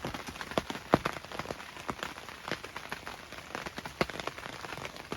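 Heavy rain falling, an even patter with many individual drops tapping irregularly, a few of them loud and sharp.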